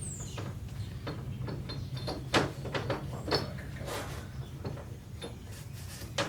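Scattered light clicks and knocks from handling small parts and packaging during engine assembly, the loudest two about two and a half and three and a half seconds in, over a steady low hum. A short falling bird chirp sounds at the very start.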